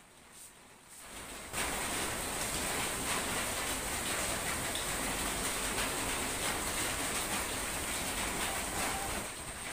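Heavy rain pouring down, a dense steady hiss that comes in suddenly about a second and a half in and eases slightly near the end.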